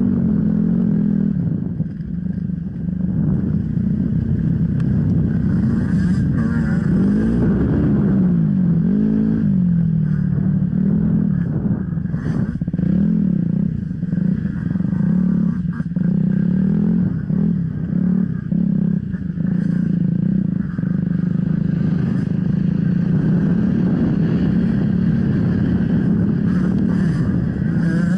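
Off-road motorcycle engine running under way, the revs rising and falling a few times between about six and ten seconds in, with scattered clattering knocks.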